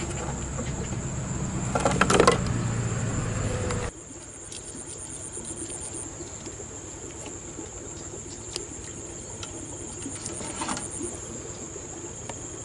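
Insects chirring in one steady, high-pitched drone. For the first four seconds a louder low rumble with a few knocks lies under it, stopping abruptly about four seconds in.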